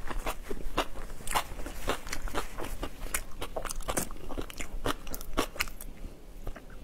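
Crunchy chewing picked up close on a clip-on microphone: a person biting and chewing crisp food with rapid crackling crunches, which thin out near the end.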